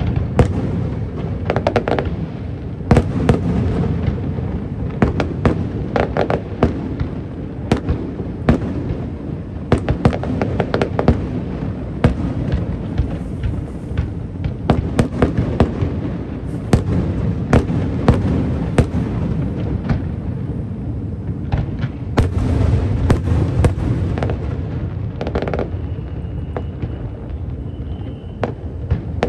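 Aerial fireworks display: rapid, irregular sharp bangs and crackles over a continuous low rumble of booming shells.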